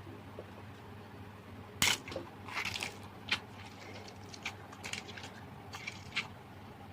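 Slime being worked by hand, giving a scattered run of sharp clicks and short crackling pops that starts about two seconds in, the first click the loudest.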